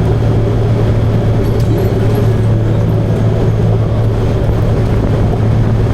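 Motorcycle running steadily at cruising speed, a constant engine drone over a low rumble of noise.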